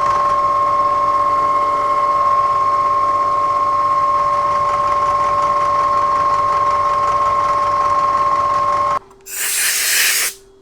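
Milling machine running a cutting pass into a steel block, a steady whine that stops abruptly about nine seconds in. It is followed by a short hiss lasting about a second.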